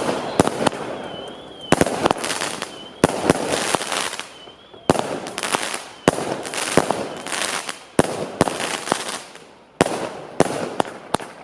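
Fireworks going off: a run of sharp bangs, each trailing off in about a second of crackle, spaced roughly a second apart. A high warbling whistle comes and goes in the first half.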